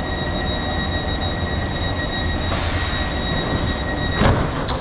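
A train's door-closing warning tone sounds steadily over the low rumble of the train standing at the platform. A burst of air hiss comes partway through, and the tone stops with a thud about four seconds in as the doors shut.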